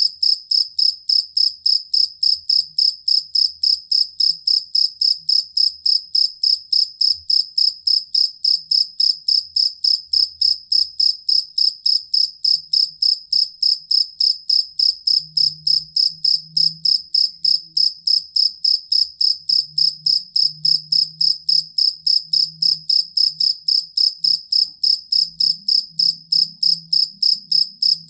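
Cricket chirping steadily in a regular train of short, high chirps, about three a second.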